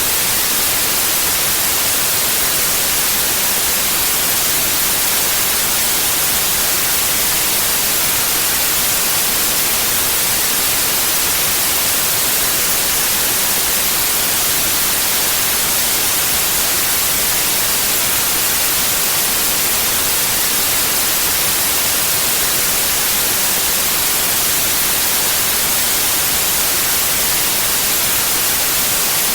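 Steady white noise: an even hiss, strongest in the highs, that does not change.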